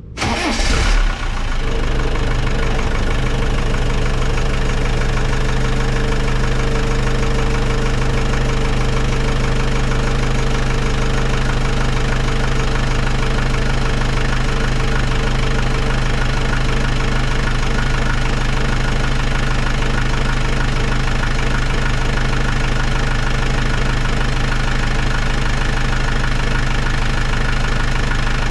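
1992 Land Rover Defender 90's 200Tdi 2.5-litre four-cylinder turbodiesel starting from cold: it catches with a brief surge in the first second, then settles into a steady idle.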